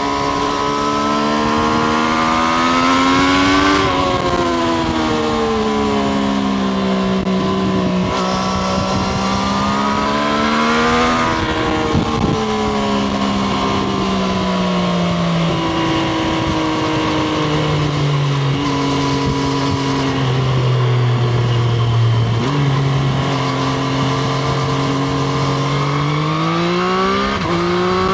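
Triumph Street Triple RS's 765 cc inline three-cylinder engine heard onboard while riding, its pitch rising and falling with the throttle through several gear changes. It makes two pulls up that roll off, runs lower and steady for a while, then builds again near the end.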